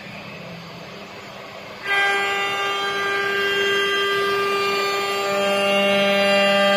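CNC router running: a steady multi-tone machine whine starts abruptly about two seconds in over a low hum, and a deeper tone joins and grows stronger a few seconds later.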